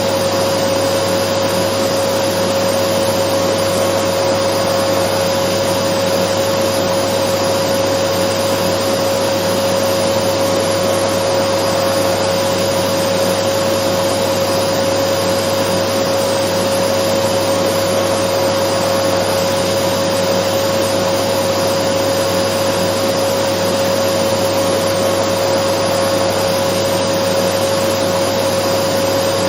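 Dyson vacuum cleaner running steadily: a constant rush of air with a steady whine from the motor on top, unchanging throughout.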